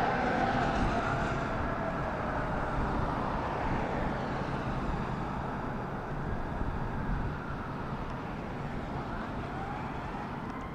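Fire apparatus siren wailing, its pitch rising and falling slowly, over a steady road rumble; it grows fainter as the rig moves away.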